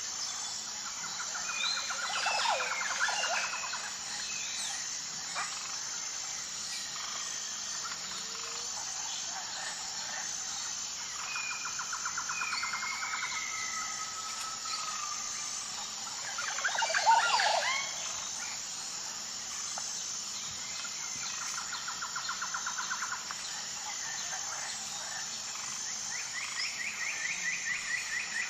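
Wild birds calling over a steady, high-pitched insect chorus: repeated short trills, a few sliding whistles, and two louder bursts of chirping, one a couple of seconds in and the loudest just past the middle.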